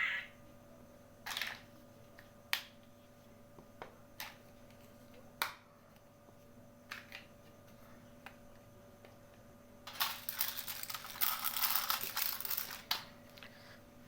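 Small plastic toy kitchen pieces being handled: scattered single clicks and taps, then about three seconds of rustling and crackling near the end.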